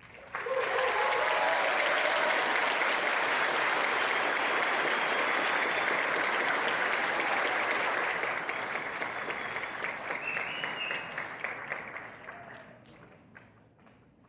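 Audience applauding, starting all at once and dying away after about twelve seconds, with a few voices calling out on top.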